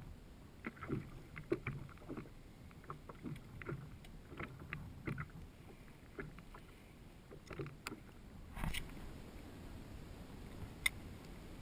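Water slapping and knocking against a kayak hull in small irregular knocks, with a heavier thump a little past the middle and a single sharp click near the end.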